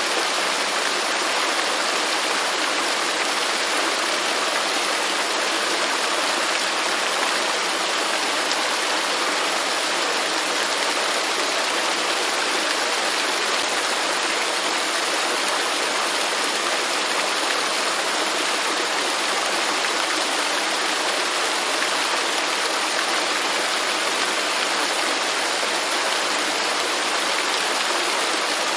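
Waterfall rushing steadily, an even hiss of falling water with little low rumble.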